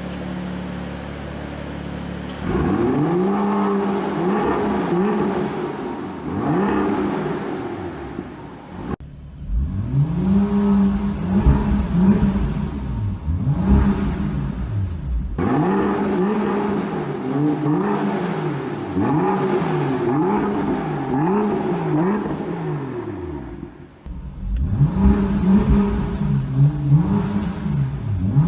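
BMW engine being revved in repeated quick throttle blips, its pitch rising and falling about once a second. The sound cuts off and restarts abruptly three times.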